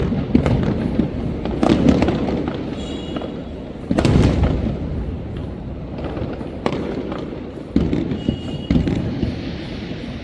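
Fireworks going off in a string of sudden bangs, each with a rumbling tail. The biggest bang comes about four seconds in.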